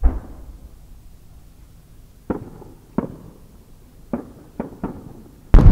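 Aerial fireworks: a thump at the start, then a string of five sharp pops from the shell's rising-tail effects, then a much louder boom near the end as the large shakudama chrysanthemum shell bursts, rumbling on.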